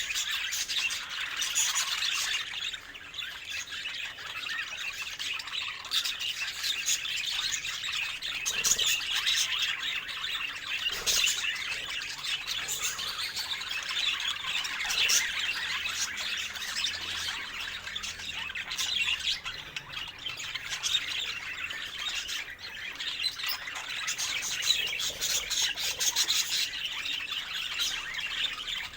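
Budgerigars chattering and warbling without pause, mixed with sharp squawks and short clicks.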